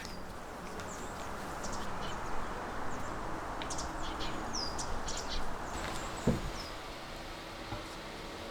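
Small birds chirping in short, high calls over a steady outdoor background hiss, with a single dull thump about six seconds in.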